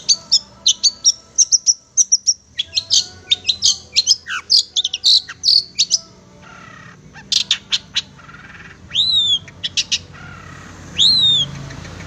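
Long-tailed shrike (cendet) singing: a fast run of short, sharp chirps for about six seconds. After a pause come a few clipped notes and two drawn-out downslurred whistles, the second near the end.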